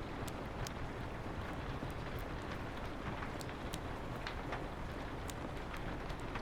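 Steady rain falling on a window, with a wood fire crackling through it in irregular sharp pops.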